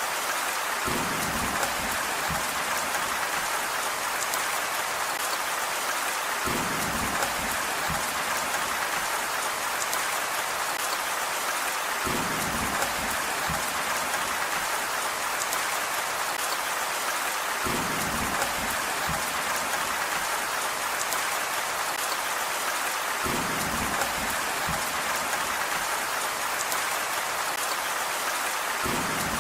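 Steady rain falling, an even hiss. A short low rumble comes in about every five to six seconds.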